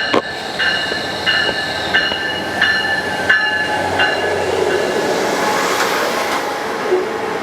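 Amtrak Pacific Surfliner passenger train rolling through the station. A bell rings about every two-thirds of a second for the first half and then stops, as the rumble of the train grows louder.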